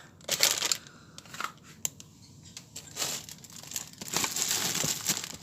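Plastic food packets crinkling and rustling in several short bursts as they are handled and put back into a fridge, with a sharp knock about two seconds in.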